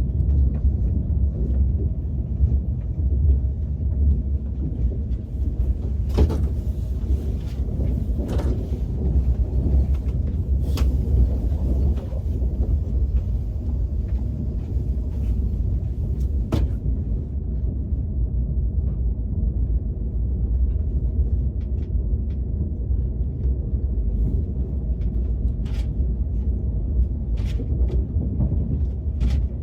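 Steady low rumble of a KTX high-speed train in motion, heard inside the passenger cabin, with a few short clicks and rustles scattered through it.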